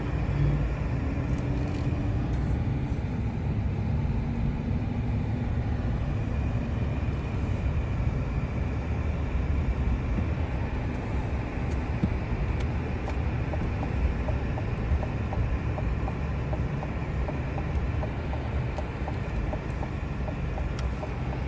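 A truck driving: a steady low engine and road rumble.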